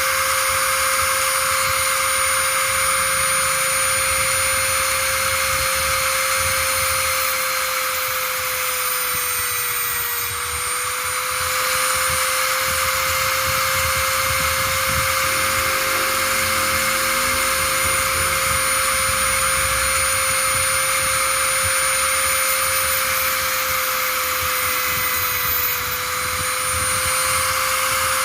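A small electric motor running steadily at high speed with a whine. Its pitch dips slightly about ten seconds in and again near the end.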